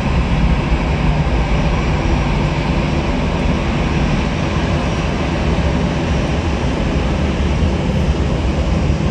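Jet airliner engines running, a steady loud rumble with a hiss above it that holds even throughout.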